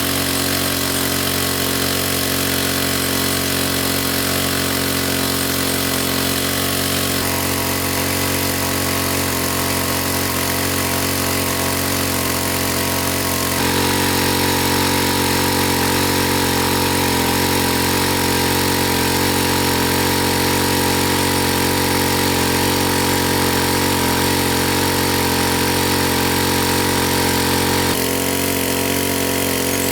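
Small engine running steadily at a constant speed, its tone and level changing abruptly a few times.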